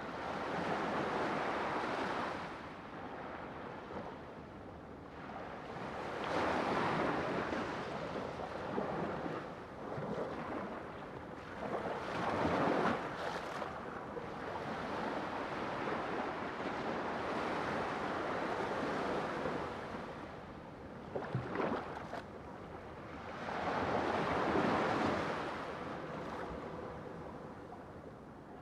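Ocean surf: waves breaking and washing in, swelling to a loud rush every few seconds and falling back between.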